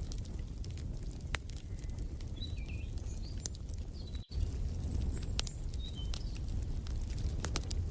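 Wood fire crackling in a fireplace, with scattered sharp pops over a low steady rumble, and a few faint bird chirps about two and a half and six seconds in. The sound cuts out for an instant about four seconds in.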